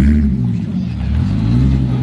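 A car's engine and exhaust revving up and down in slow swells, a low rumble.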